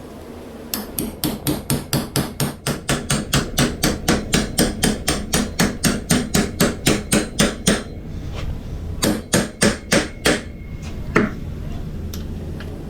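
A hammer driving 1/2-inch carriage bolts through a wood-and-steel-plate flitch beam: a fast, even run of blows, about four a second, for some seven seconds, then after a pause about five more and one last strike.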